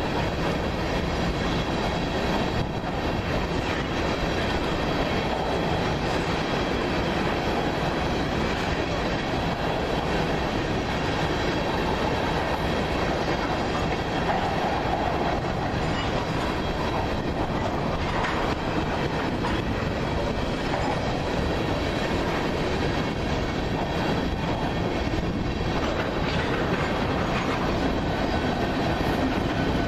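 Empty freight cars of a train rolling steadily past, a continuous rumble with wheels clacking over rail joints.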